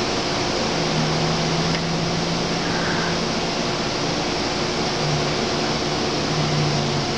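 Amtrak passenger train standing at the platform, giving off a steady machine hiss with a low hum underneath.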